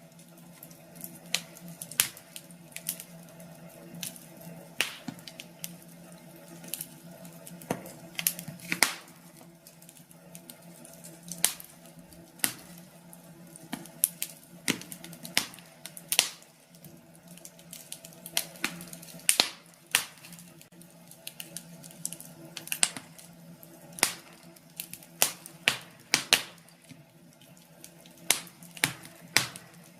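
Wood fire crackling in a fireplace: irregular sharp pops and snaps, several a second at times, over a faint steady low hum.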